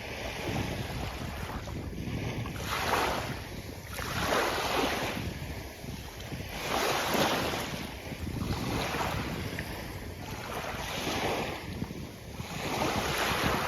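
Sea waves breaking and washing up a beach, one surge of surf every two seconds or so over a steady rushing background.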